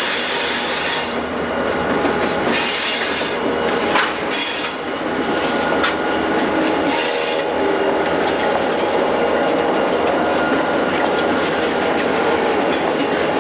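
Diesel-hauled freight train passing close by, its wheels squealing against the rails in several bursts during the first half, with a sharp knock about four seconds in and a steady rolling noise from the cars.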